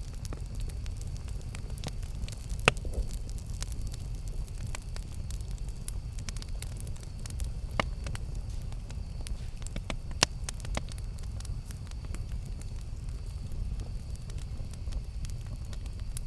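Campfire burning: a steady low rumble of the flames with frequent small crackles, and three louder pops, at about three, eight and ten seconds in.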